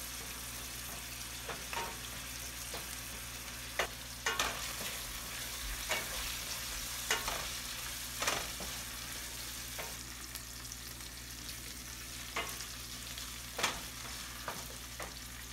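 Potato and onion pieces sizzling in oil in a stainless steel pan, stirred with a wooden spatula that scrapes and knocks against the pan every second or two.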